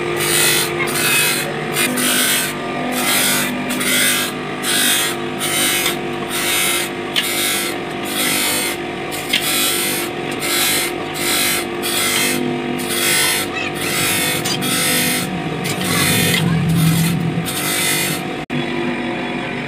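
Repeated scraping strokes on metal, about two a second, over a steady motor hum. The strokes stop briefly near the end.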